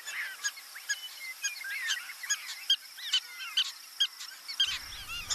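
A chorus of small birds chirping: many short, high chirps overlapping at an irregular pace.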